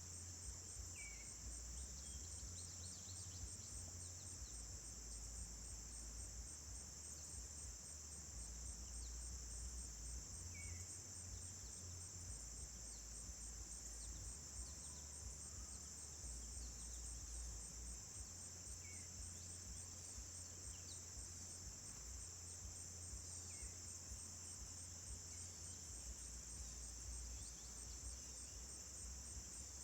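Insect chorus, a steady high-pitched trilling drone, with a few faint short bird chirps scattered through it.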